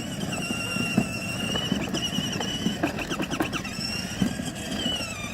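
Battery-powered ride-on toy 4x4 truck driving on concrete: its electric motors and gearboxes give a steady high whine that wavers and dips in pitch near the end, over the rough rumble of its plastic wheels.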